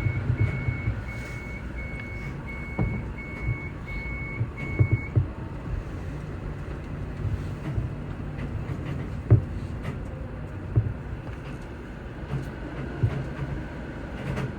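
An electronic warning beeper at a train's arrival at its terminus, sounding a single high tone about twice a second, which stops about five seconds in. Under it is a low rumble with occasional knocks and clicks.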